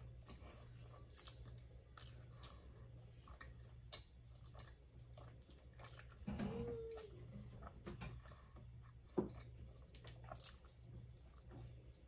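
Faint close-up chewing: soft mouth clicks and smacks as food is eaten, with a brief rising-and-falling hummed tone about six seconds in.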